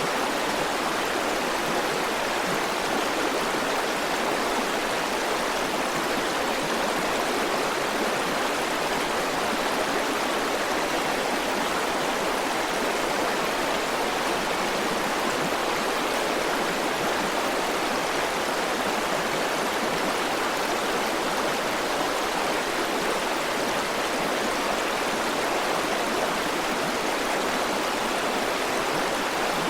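A river running over stones: a steady, even rush of flowing water with no breaks or changes.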